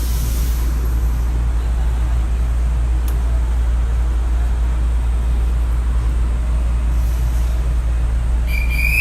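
Shonan Monorail suspended monorail car running, heard from inside the cabin: a steady low rumble of the running gear with a noise of travel over it. A brief high-pitched tone sounds near the end.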